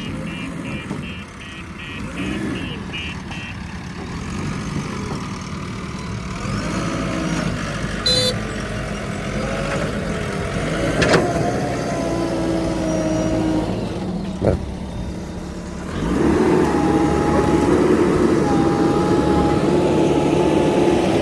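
Diesel engines of heavy equipment running, with the engine note shifting in pitch under load. It gets clearly louder about sixteen seconds in, as an engine is worked harder.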